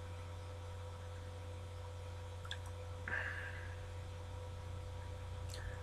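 Quiet room tone with a steady low electrical hum, a few faint clicks about two and a half seconds in, and a short breathy hiss about three seconds in.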